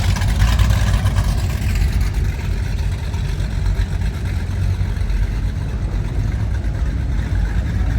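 High-performance powerboat engines running at low speed with a steady low rumble.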